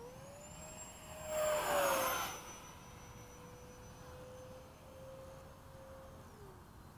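Electric ducted-fan model A-10 jet flying past: a high whine that rises in pitch, swells into a loud rushing pass about a second and a half in and drops in pitch as it goes by, then holds steady before falling in pitch near the end.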